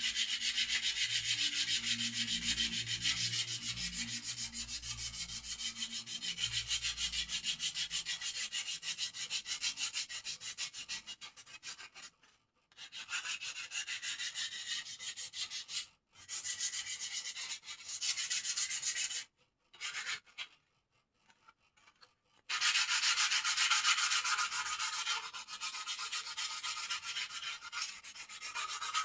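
Fast abrasive strokes rubbing the wooden parts of a bird cage smooth. The strokes stop briefly a few times and for about three seconds past the middle, then carry on louder.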